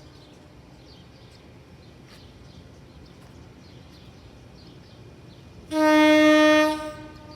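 Train horn sounding one blast of about a second near the end, over a faint steady background.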